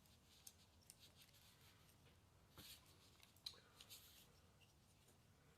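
Near silence, with a few faint, short clicks and light scrapes of small carburetor parts and a hand tool being handled, about a second apart.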